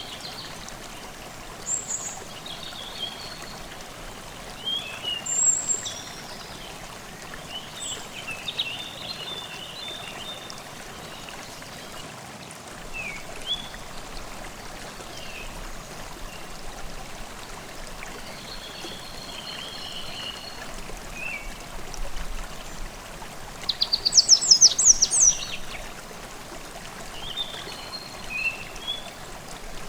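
A forest stream babbling steadily, with scattered calls and short songs of small birds over it. Late on, one bird gives a loud, rapid run of high notes.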